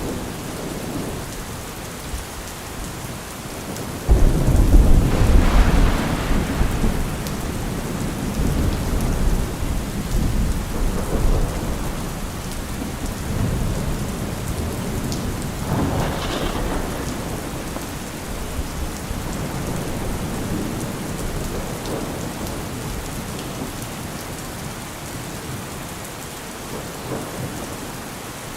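Steady rain with thunder: a sudden loud thunderclap about four seconds in that rumbles on for several seconds, and a weaker roll of thunder later.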